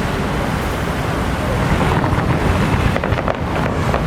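Loud, dense rumble of a street procession. About halfway, rapid firecracker-like cracks begin and thicken.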